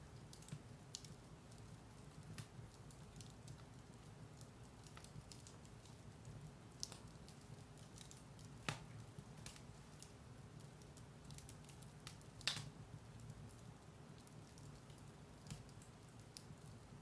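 Firewood burning in a fireplace: a quiet, steady low rumble of flame with sparse crackles and pops, two sharper pops standing out about nine and twelve and a half seconds in.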